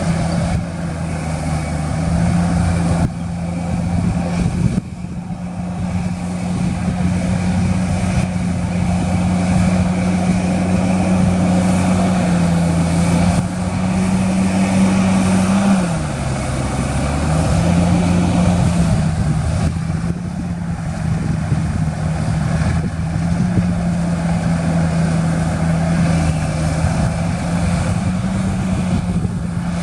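Large diesel engine of heavy earthmoving machinery running steadily under load. About halfway through its pitch drops sharply and then climbs back within a couple of seconds, the engine lugging and recovering.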